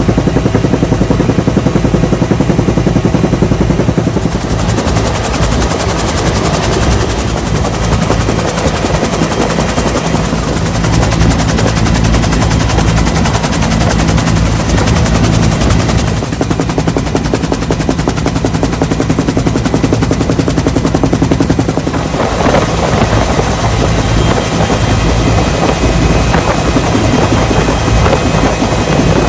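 Loud, steady motor noise with a rapid chopping pulse and a low hum, like rotor blades.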